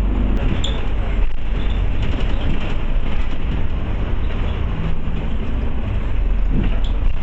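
Interior of a Scania OmniCity bus on the move: steady low engine and road rumble, with a couple of brief knocks from the body.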